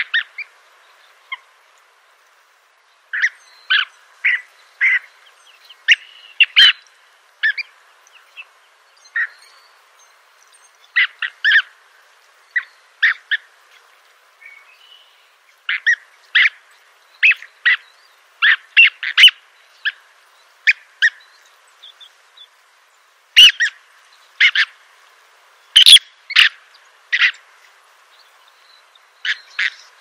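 Recorded bird calls: short, sharp notes in irregular runs of two to four, with brief pauses between runs.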